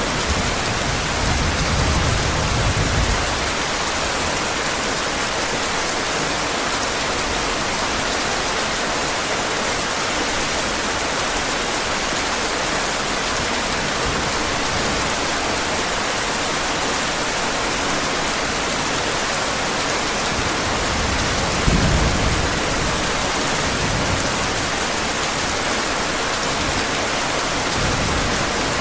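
Steady heavy rain. Low thunder rumbles in the first few seconds and again about two-thirds of the way through.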